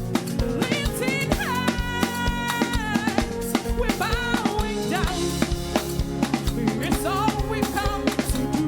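Live worship band playing an instrumental passage: a drum kit keeps a steady beat with kick and snare under sustained chords, while a lead melody slides and bends between notes above it.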